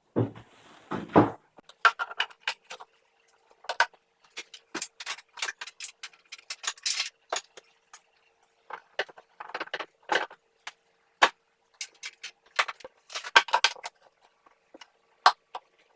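Irregular clicks and light knocks, several a second at times, from the dust hood's parts being handled, over a faint steady hum.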